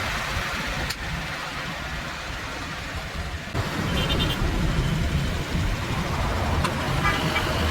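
A truck engine running with a steady low rumble, changing abruptly about three and a half seconds in, and a brief high chirp just after.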